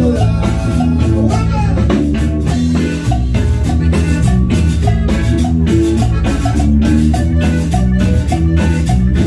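A norteño band playing a dance tune, with a steady drum beat and bass under held melody notes.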